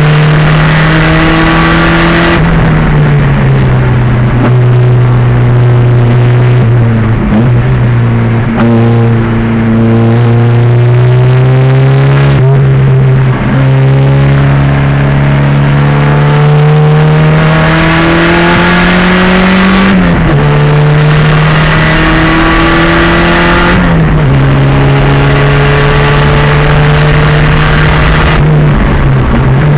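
The 2.0-litre turbocharged engine of a 1987 Pontiac Fiero race car running hard on track. Its pitch climbs slowly under load, then drops sharply several times, every four to seven seconds.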